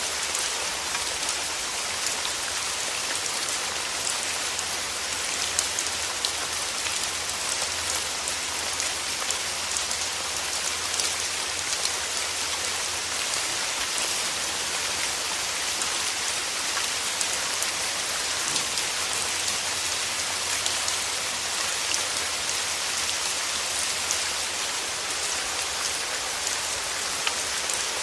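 Steady rainfall: a dense, even hiss of rain with many small drops pattering on a surface.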